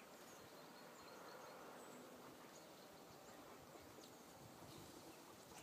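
Near silence: faint outdoor ambience with a few short, faint high bird chirps scattered through it.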